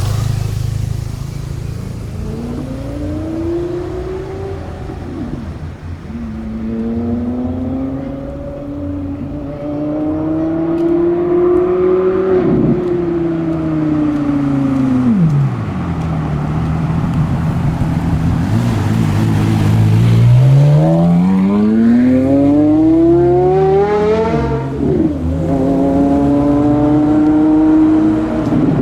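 Porsche Carrera GT's 5.7-litre V10 through an FVD aftermarket exhaust, accelerating in several pulls, its pitch climbing and then dropping sharply at each gear change. The longest and loudest climb starts from low revs about twenty seconds in, and the engine settles to a steady note near the end.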